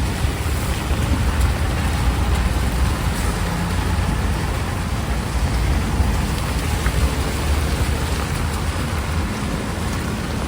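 Heavy rain pouring steadily, with a low rumble underneath throughout.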